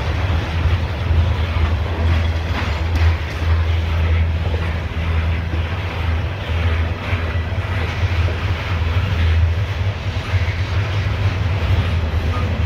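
Loaded CSX coal hopper cars rolling past close by: a steady, loud low rumble of steel wheels on the rails, with a few faint clicks.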